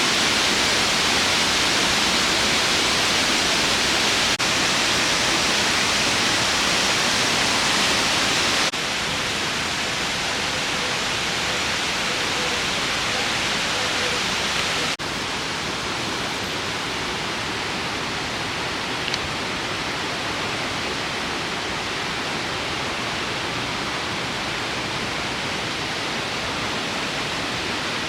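Waterfall roaring: a steady rush of falling water, with abrupt slight drops in level about four, nine and fifteen seconds in.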